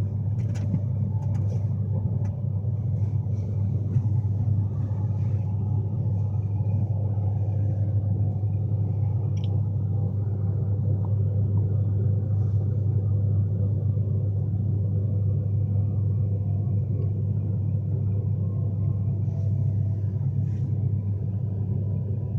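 Class 390 Pendolino electric train running at speed, heard from inside the passenger coach as a steady low rumble, with a few faint clicks.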